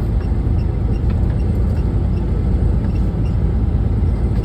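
Steady low rumble of a big truck's engine and tyres on the road, heard from inside the cab while driving, with faint regular ticks a little under a second apart.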